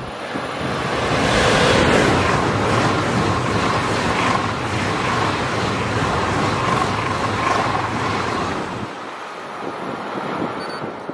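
Eurostar high-speed train passing at speed: the rush of wheels and air builds about a second in, holds loud and steady with a faint whine for several seconds, then falls away near the end as the train clears.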